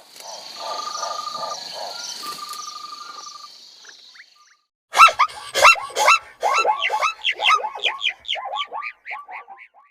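Animal calls. For the first four seconds there is a pulsing call with a steady high tone. After a short gap, a fast series of short, downward-sliding calls fades toward the end.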